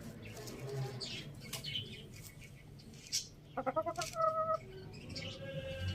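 Domestic chickens feeding, with scattered light pecking clicks and a short run of hen clucks about four seconds in. A steady held tone begins near the end.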